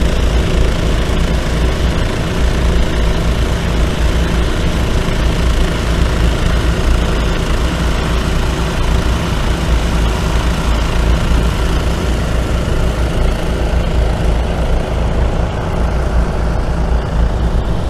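An engine running steadily, a continuous drone with a strong low rumble and no change in pitch.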